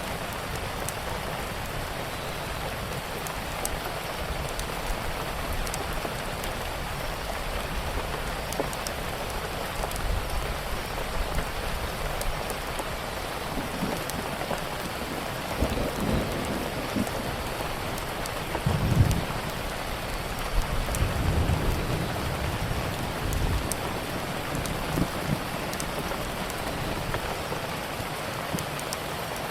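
Steady rain falling, with low rumbles of thunder building about halfway through and peaking a little later. Scattered small crackles from a wood fire sound over the rain.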